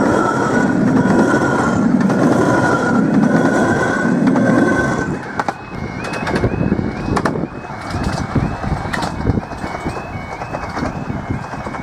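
A Romney, Hythe & Dymchurch Railway miniature train runs over the level crossing for about five seconds and then moves off. After that, the Pitsch Bamag half-barrier crossing's fairly loud alarm is left warbling about twice a second, with wind buffeting the microphone.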